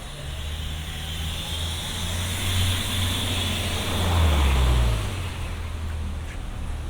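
Road traffic: a motor vehicle passes close by on wet pavement, its engine rumble and tyre hiss swelling to a peak about four seconds in, then fading.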